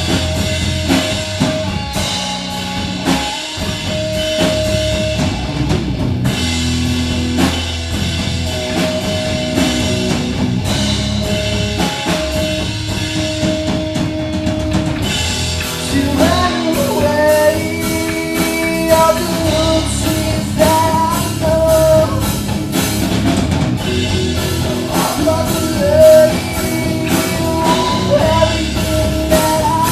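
Rock band playing live: drum kit, electric guitar and bass, with sung vocals coming in about halfway through.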